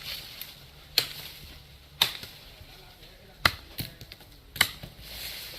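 Chopping strikes into wood from a hand blade, sharp and separate, roughly one a second and a little irregular, as teak branches are cut.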